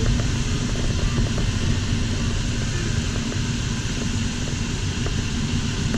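Steady rush of airflow over an LS4 sailplane's canopy and fuselage in flight, heard in the engineless cockpit.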